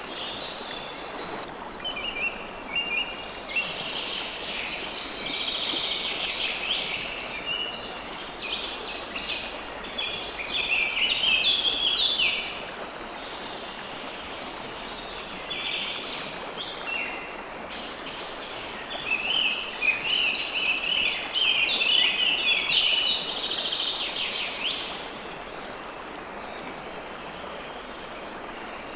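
Steady rushing of a flowing river, with songbirds chirping and singing over it in two long busy bouts, quieter for a few seconds in between and near the end.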